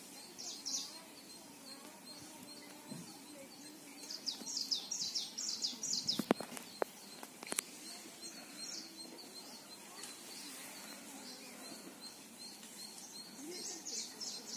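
Small birds chirping in runs of quick, high notes, a few seconds apart, over a faint steady outdoor background. A few sharp clicks come around the middle.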